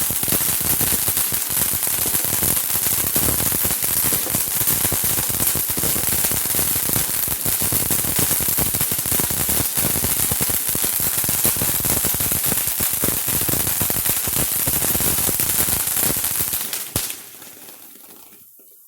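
A firework crackling loudly: a dense, rapid run of sharp pops and hiss that lasts about seventeen seconds, then cuts off suddenly.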